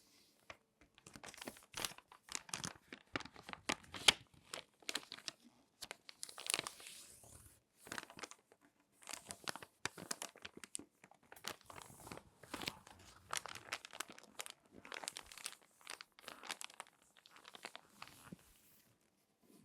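Crinkly magazine pages being folded and creased by hand: a run of irregular crinkles and sharp crackles in clusters, with short pauses between.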